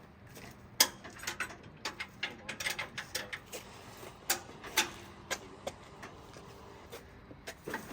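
Irregular sharp clicks and knocks of hands-on work on a makeshift repair, the loudest about a second in, then a quick cluster and scattered single knocks.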